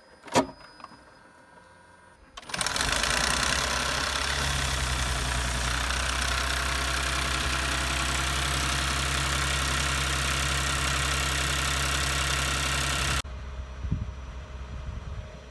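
Lexus GS450h 3.5-litre V6 engine running with a clatter, coming in abruptly about two and a half seconds in and cutting off near the end to a quieter exhaust sound at the tailpipes. This is the rough, clattering running that, together with coolant loss and oil mixing with water, led to the engine being stripped down to the head gaskets.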